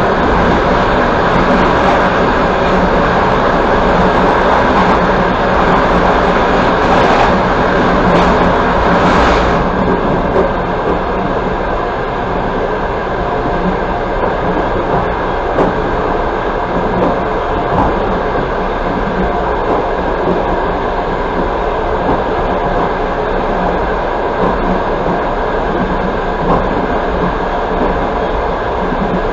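Passenger express train running along the track, heard from inside the carriage: a steady rumble of wheels on rails. A louder hiss over it drops away about nine seconds in.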